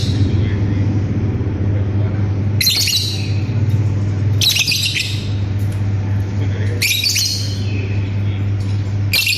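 Lovebird giving short, harsh, high-pitched chattering calls about every two seconds, four in all, each lasting about half a second, over a steady low hum.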